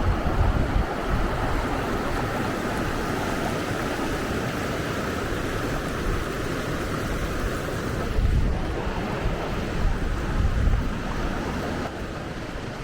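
Rushing river water making a steady rush, with wind buffeting the microphone in low gusts near the start and again about two-thirds of the way through.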